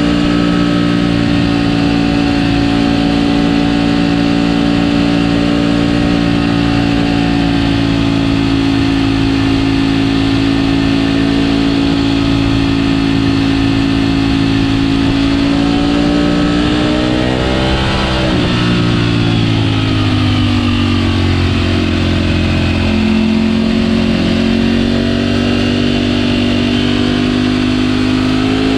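Ducati Panigale V4 motorcycle's V4 engine running at steady cruising revs, heard from a GoPro mounted on the bike. About 18 seconds in the revs climb, then fall away sharply to a lower steady pitch and slowly build again.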